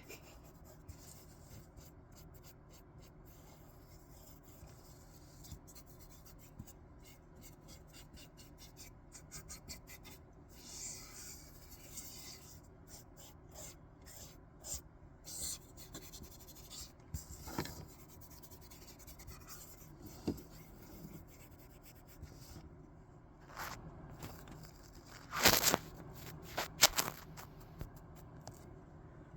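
Soft rubbing and scraping on paper, close up, with a few louder sharp crinkles or snips near the end.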